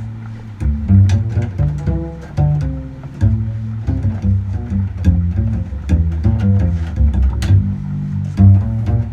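Double bass strung with gut strings, played pizzicato in a slow solo line of low plucked notes. Short clicks are scattered throughout.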